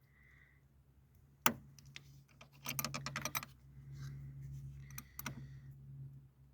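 Small metallic clicks and rattles of hand tools working a loose battery terminal clamp: one sharp click, a quick run of clicks a little later, then another click, over a faint low hum.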